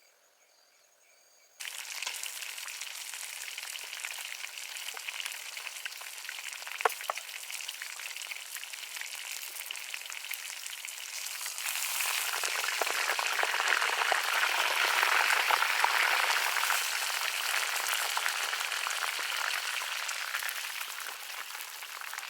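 Food sizzling and crackling as it fries in hot oil. The sizzle grows louder about halfway through and eases off near the end, with one sharp pop about seven seconds in.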